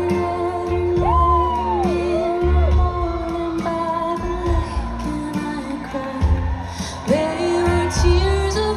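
Live band playing a slow song, with a lead melody that slides up and down between held notes over steady, repeating bass notes.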